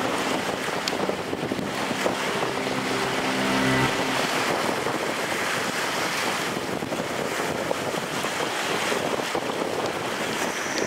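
Strong wind rushing over the microphone, mixed with the wash of waves on open water.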